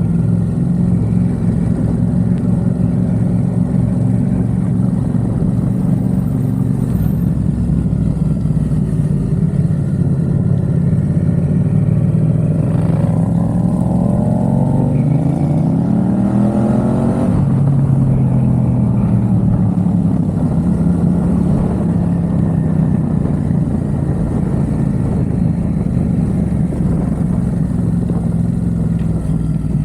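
Yamaha XSR700's parallel-twin engine through a MiVV aftermarket exhaust while riding, running steadily, then climbing in pitch for several seconds past the middle before easing back down.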